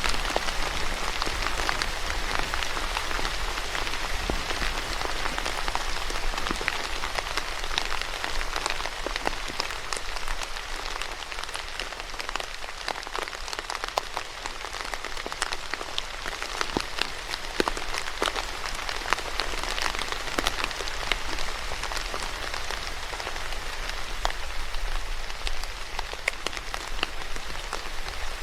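Steady rain falling on a surface, a dense even hiss with many individual drops ticking sharply through it.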